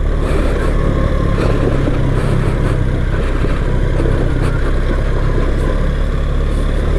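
BMW R 1300 GS boxer-twin engine running steadily while riding a rough dirt track, with tyre and gravel noise and a few faint knocks from stones.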